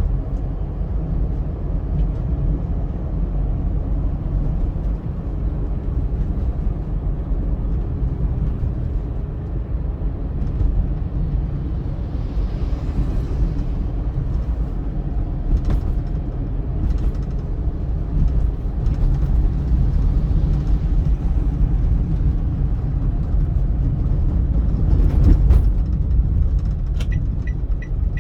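Car driving on a highway: a steady low rumble of engine and tyre noise, swelling briefly about halfway through as if another vehicle passes. A few sharp clicks occur, and near the end a regular high ticking begins.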